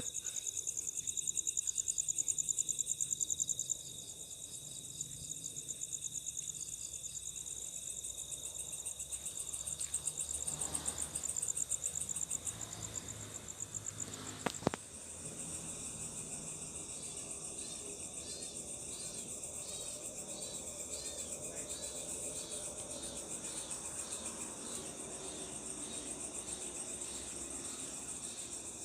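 Night chorus of crickets and other insects: a steady, rapidly pulsing high trill, with a different chirping pattern taking over a little past halfway. A single sharp knock about halfway through.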